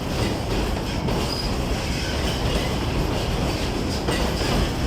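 Narrow-gauge forest railway train, hauled by an Mk48 diesel locomotive, running steadily along the track: a continuous rumble with wheels clattering on the rails and faint high squeals from the wheels.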